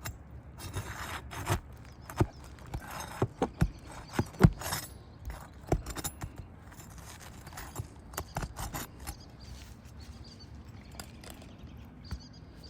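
A metal roofing tool working roofing nails out of asphalt shingles: an irregular run of sharp knocks and metallic clinks with scraping, the loudest knock about four and a half seconds in, then fewer after about nine seconds.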